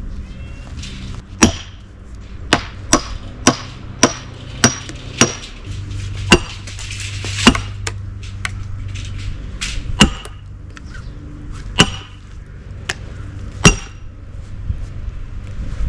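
Sledgehammer striking a steel splitting wedge in an oak round, about a dozen ringing metal-on-metal blows. A quick run of strikes about half a second apart comes in the first few seconds, then the blows come one to two seconds apart.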